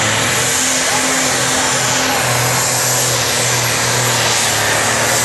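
Competition pulling tractor's engine running at high power, a loud steady roar.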